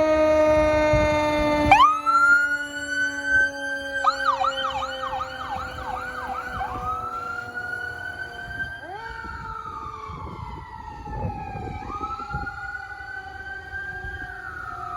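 Fire engine on an emergency run: a loud steady horn blast gives way about two seconds in to its siren. The siren wails up, switches to a fast yelp for a few seconds, then goes back to slow rising and falling wails, quieter than the horn.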